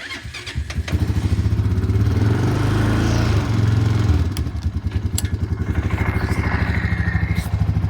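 A large engine starts and settles straight into a steady, low, rhythmically pulsing idle.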